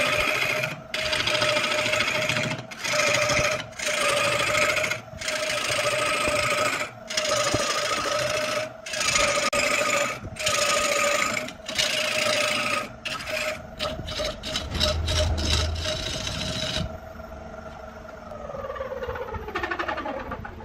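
A wood lathe running with a steady tone while a tool is worked against the spinning wood in repeated scraping strokes, each about a second long, which come faster towards the end. Then the strokes stop and the motor's tone falls steadily in pitch as the lathe spins down.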